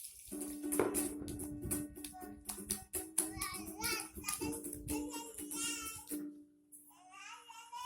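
Music with a child's singing voice over sustained accompanying notes, with a few sharp clicks.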